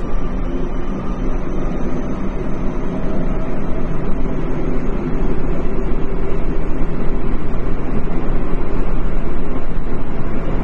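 Tokyo Metro 10000 series electric train running at speed in a subway tunnel, heard from inside the car: a steady rumble of wheels on rails and the running gear that grows louder about five seconds in.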